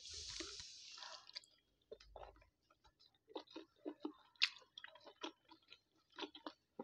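Close-miked chewing of a steamed chicken momo dumpling: a short noisy stretch as it goes into the mouth at the start, then scattered faint mouth clicks and smacks.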